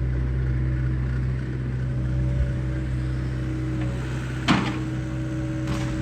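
Excavator's diesel engine running steadily, with a single sharp knock about four and a half seconds in.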